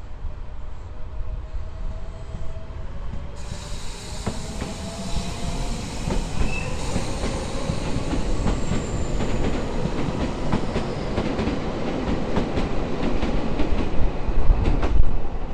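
Shintetsu (Kobe Electric Railway) electric train running past, its wheels clicking over the rail joints with a faint wheel squeal, growing louder toward the end.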